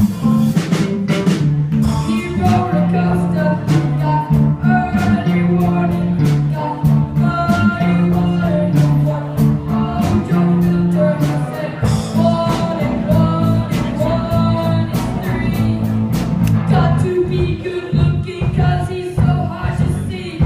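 A live rock band playing a song: singing over guitar and bass, with sharp percussive hits throughout.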